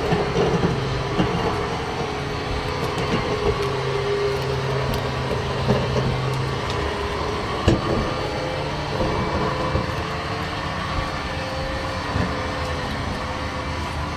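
Steady machine or vehicle running noise with a low hum that shifts in pitch, and scattered rattles and clicks; one sharper knock a little past the middle.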